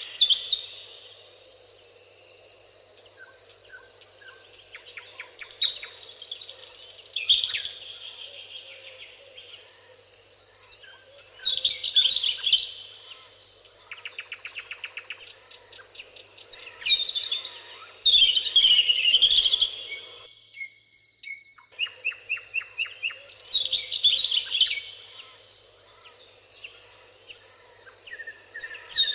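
Songbirds singing in a meadow. A loud warbled phrase recurs about every five or six seconds, with fast dry rattling trills in between, over a steady faint background.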